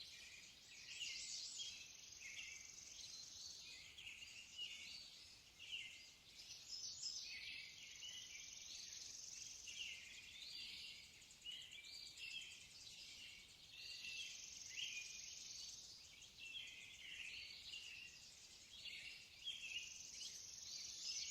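Faint birdsong: many small birds chirping and twittering in a continuous, overlapping chorus of short high calls.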